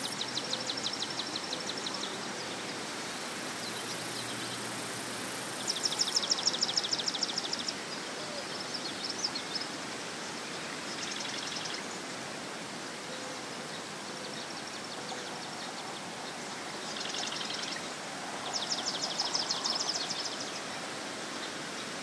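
Marsh ambience: a steady wash of background noise, with a small songbird's fast trills coming in short bouts every few seconds, the loudest about six seconds in and again near the end. A high, thin buzz stops about six seconds in.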